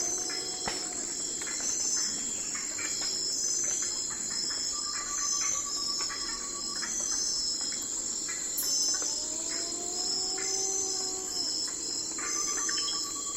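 Night forest ambience: a dense chorus of crickets and other insects chirring steadily in a high, pulsing layer, with a lower steady trill joining about five seconds in and again near the end. A soft call rises and falls in pitch once, over a few seconds, past the middle.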